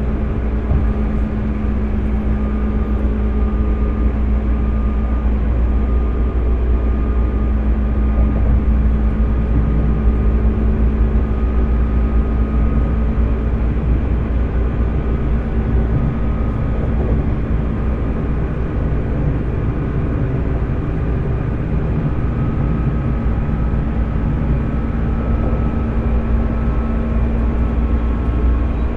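205 series electric train motor car with MT61 externally fan-cooled traction motors running at a steady speed, heard from inside the car: a loud, even rumble with a steady hum.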